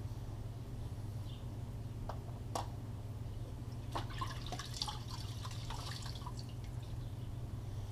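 A rag wrapped on a screwdriver working wet cleaner along the groove of a sliding door's bottom track: a couple of sharp clicks, then, about four seconds in, a couple of seconds of small wet scraping and clicking. A steady low hum runs underneath.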